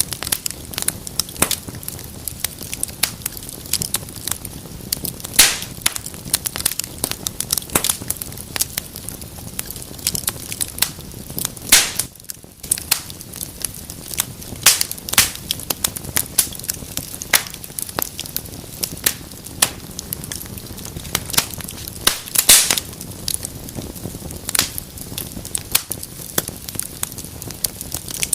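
Fire in a fireplace crackling steadily, with dense sharp pops over a low steady hiss of flame and a few louder pops.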